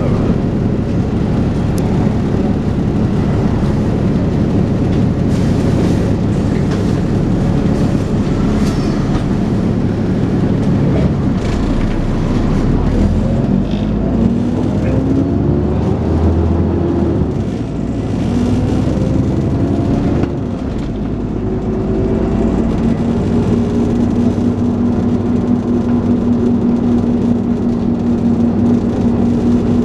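Dennis Trident 2 double-decker bus's diesel engine and drivetrain working hard under way, heard from on board. It pulls up through the gears with a rising whine twice, about halfway through, then holds a steady tone.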